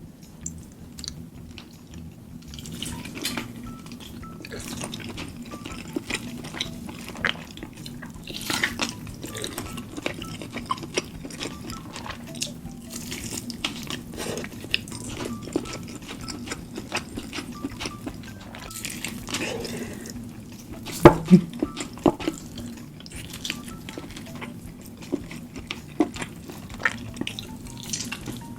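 Close-miked eating sounds: wet chewing and smacking of saucy food, with many small clicks of utensils on a plate and one sharp clatter about 21 seconds in.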